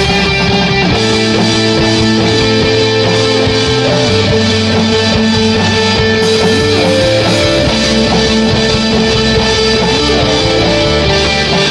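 Instrumental rock passage of a song with guitar and no singing. Sustained chords and bass notes shift every second or two.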